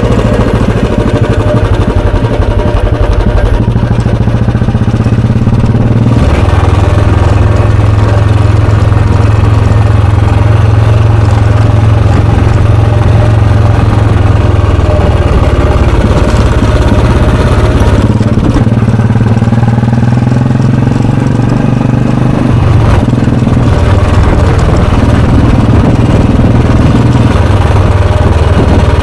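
Royal Enfield Bullet 350's air-cooled single-cylinder four-stroke engine and exhaust running steadily while riding. The engine note shifts about 6 seconds in, again about 18 seconds in, and once more a few seconds later, as the throttle or gear changes.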